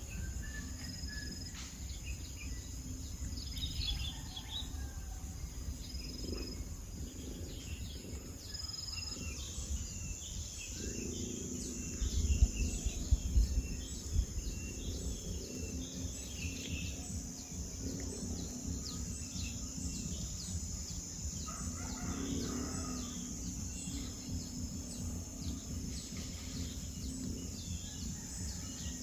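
Outdoor ambience: a steady high-pitched insect drone with scattered small bird chirps, and a few louder low bumps about twelve seconds in.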